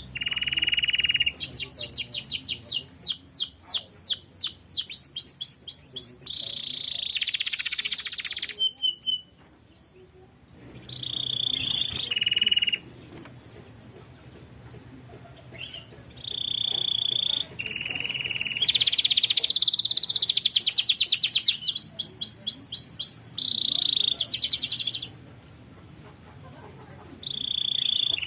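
Canary singing vigorously: phrases of fast rolling trills and held whistled notes, broken by pauses of a few seconds a couple of times.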